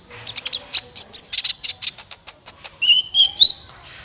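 Kolibri ninja sunbird calling: a fast run of sharp, high chirps and ticks, then a few upward-sweeping notes about three seconds in.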